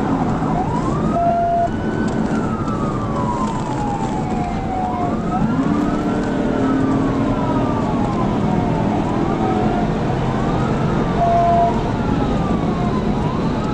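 Police cruiser's siren wailing in slow rising and falling sweeps, about four times, over the steady road and wind noise of the cruiser at high speed. A short steady beep sounds twice, about a second in and near the end.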